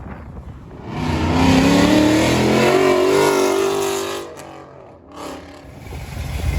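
Car engine revved hard for about three seconds, its pitch climbing, then let off and falling back, followed by a short blip and the engine rising again near the end.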